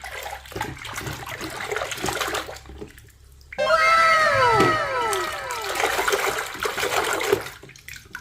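Water rushing and splashing, as in a washing sound effect. About three and a half seconds in, a louder run of repeated falling tones joins it, then fades near the end.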